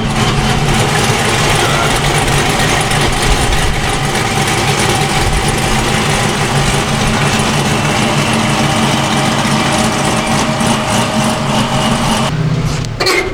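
Dodge HEMI V8 engine idling steadily, with a brief change in its sound near the end.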